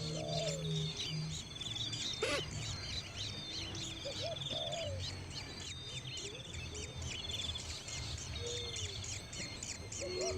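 Several birds calling at once: rapid high chirps and buzzy trills repeating throughout, with a few lower arching calls and one louder sweeping call about two seconds in.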